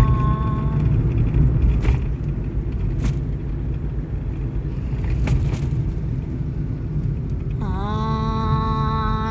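Sustained vocal toning: a long held tone dies away within the first second, leaving a low rumble with a few faint clicks. Near the end a new tone begins, sliding briefly up into pitch and then held steady.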